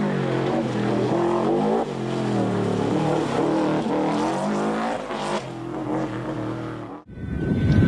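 Rally car engine revving hard, its pitch climbing and then dropping back again and again as it shifts gears and lifts off. About seven seconds in, the sound cuts off suddenly to a louder, rougher noise.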